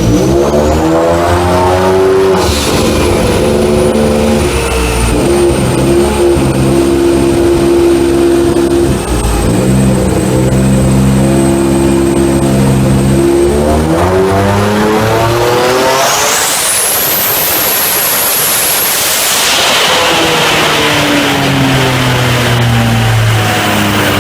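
Nissan 300ZX's twin-turbo VG30DETT V6 running hard, its pitch holding, dropping and climbing again as it is driven through the revs. A thin high whine rises sharply about two-thirds of the way in and holds for a few seconds.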